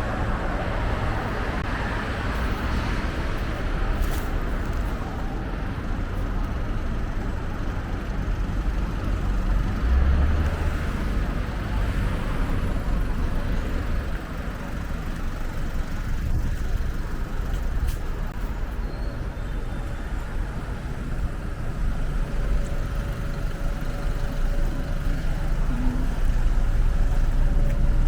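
Road traffic going by: a steady low rumble of passing vehicles that swells and eases, a little louder near the end.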